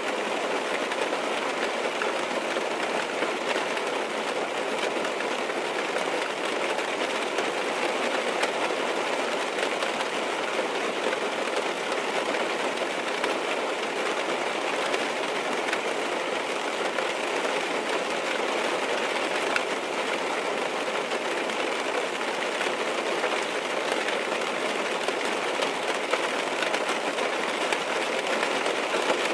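Steady rain drumming on a car's roof and windows, heard from inside the car, as an even hiss with scattered faint drop ticks.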